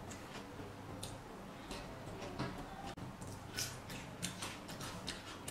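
A person chewing crunchy raw vegetables, close-miked: irregular crisp crunches and wet mouth clicks, several a second.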